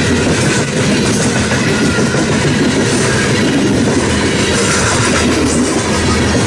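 Long freight train of coal cars passing close by, steel wheels rolling steadily over the rails.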